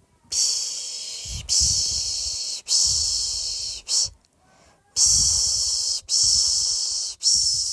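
A person shushing a baby to sleep: repeated long 'shh' strokes about a second each, back to back with brief breaks. There are about six in all, with a longer pause a little past the middle.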